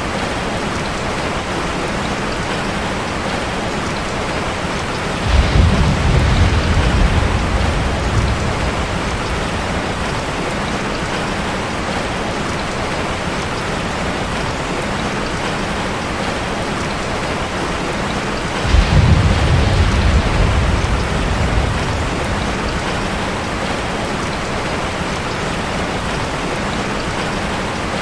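Steady rain drumming on a metal roof, with two low rumbles of thunder, one about five seconds in and another about two-thirds of the way through, each starting suddenly and fading over a few seconds.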